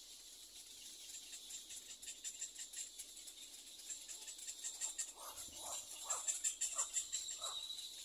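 A bird gives about five short calls, each dropping in pitch, a little over two a second in the second half, over a steady high-pitched hiss.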